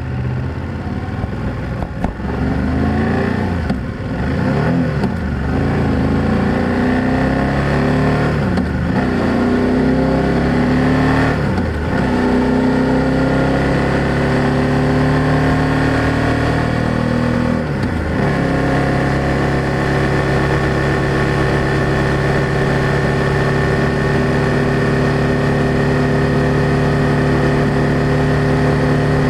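BMW F800GS motorcycle's parallel-twin engine and exhaust under way: the pitch climbs and drops several times as the rider shifts up through the gears, then holds a steady cruising note from about two-thirds of the way in.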